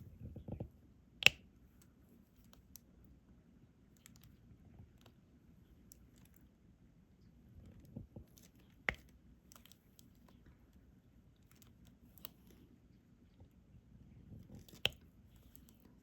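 Scattered small plastic clicks and taps from diamond painting: a stylus picking up resin drills and pressing them onto the sticky canvas. The sharpest click comes about a second in, with a few more spread out later.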